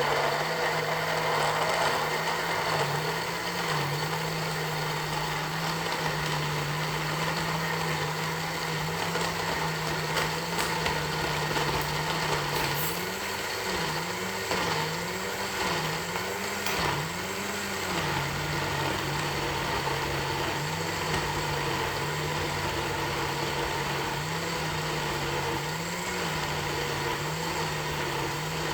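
Electric blender running continuously, grinding ginger, lemongrass and other aromatics with water into a paste; the motor's pitch dips and recovers repeatedly in the middle as it works through the fibrous load.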